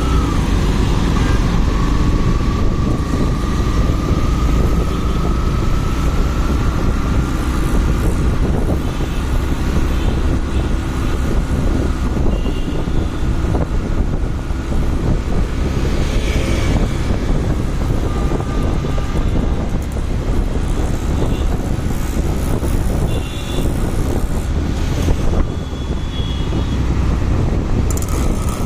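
Motorcycle on the move in road traffic: the engine runs under heavy wind rumble on the microphone, with a faint steady whine that slowly rises in pitch over the first few seconds and then holds.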